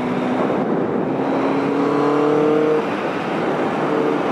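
Yamaha XJ750 Seca's air-cooled inline-four engine running under way, with wind and road noise; its pitch climbs briefly in the middle. The engine is picking back up as its four carburettors refill with fuel after it ran dry.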